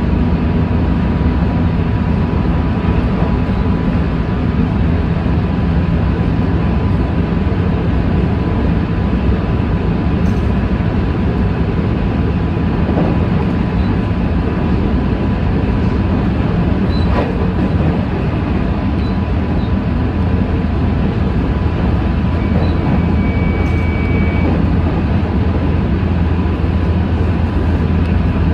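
Inside a JR Central 313 series 5000 electric train: a steady, even rumble, with a faint constant high tone running along under it and a short higher tone about twenty-two seconds in.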